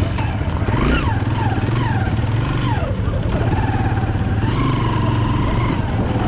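Single-cylinder engine of a 2008 Pulsar 200 motorcycle on the move in traffic, its pitch rising and falling several times as it revs up and eases off, then holding steadier near the end.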